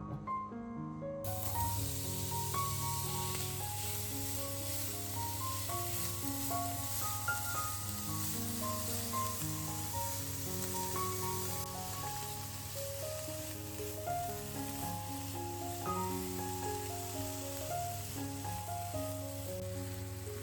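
Food frying in hot oil in a pan: a steady sizzle that starts suddenly about a second in. Background music plays throughout.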